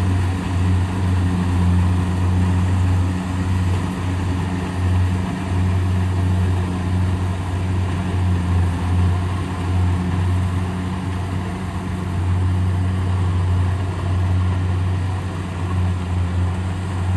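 Kubota DC70 Pro combine harvester running steadily, a low, even engine drone.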